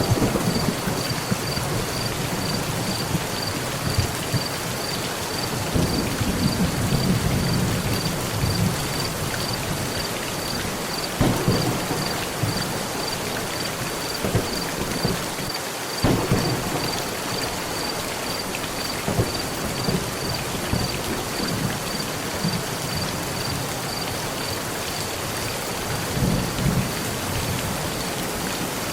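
Heavy rain falling steadily on a metal roof, with thunder: a low rolling rumble a few seconds in, then sharper claps about 11 and 16 seconds in and again near the end.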